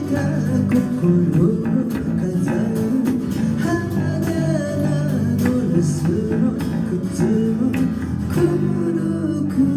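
A small band playing a city-pop song: guitars over a bass-guitar line, continuous throughout.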